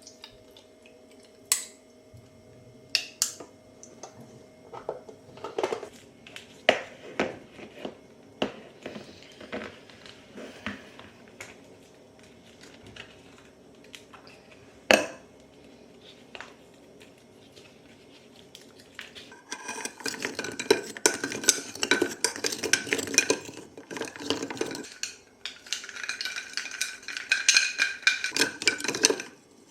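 Kitchen dishes and cutlery: scattered sharp clinks and knocks, then, from about twenty seconds in, two long stretches of rapid utensil clattering and scraping against a dish.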